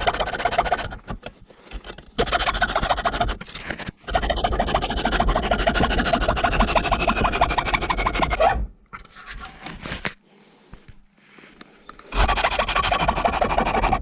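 Hand tool rasping through 4 mm aluminium sheet in runs of fast strokes, with short pauses between them.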